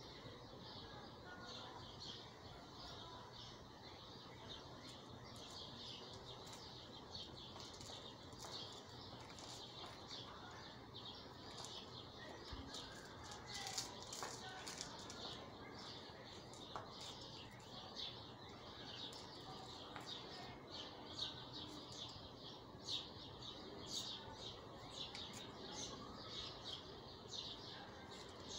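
Small birds chirping in rapid, continuous short high notes, faint throughout with a few louder chirps.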